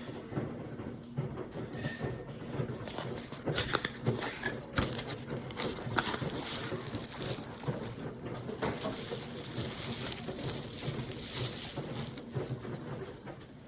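Handling noise: irregular clicks, taps and rustling, thickest a few seconds in.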